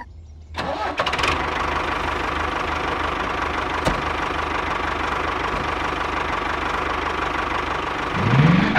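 Small tractor engine running steadily, starting about half a second in with a few clicks, then revving up near the end.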